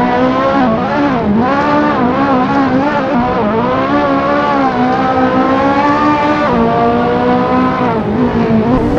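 High-revving sports car engine running hard, its note rising and falling again and again as the car accelerates and lifts off, with a marked drop in pitch about six and a half seconds in.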